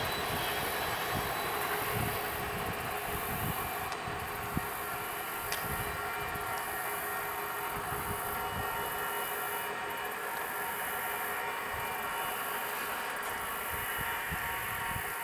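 Union Pacific 844's steam excursion train pulling away: the passenger cars' wheels rumble on the rails at a steady level as the tail of the train moves off.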